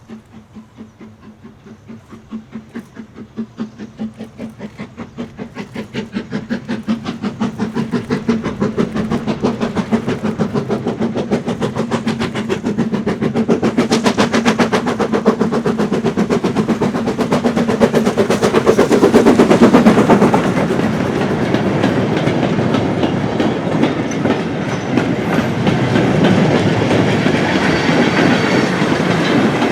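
BR Standard Class 9F 2-10-0 steam locomotive 92214 working a goods train past, its rhythmic exhaust beats growing steadily louder as it approaches. It is loudest about two-thirds of the way in, then the wagons rattle by over the rail joints.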